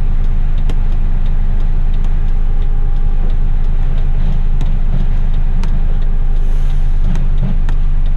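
Heavy rigid truck's diesel engine idling steadily, with a few faint scattered clicks over it.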